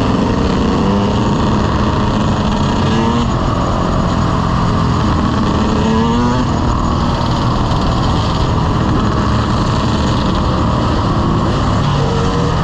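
Dirt bike engine running under way beneath a steady rush of wind noise, its pitch climbing twice as it revs up, about three and six seconds in.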